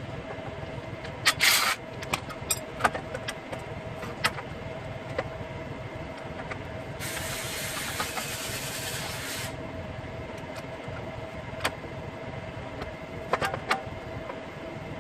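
Metal tools clinking and knocking against engine parts during a teardown, with a steady hiss lasting about two and a half seconds midway.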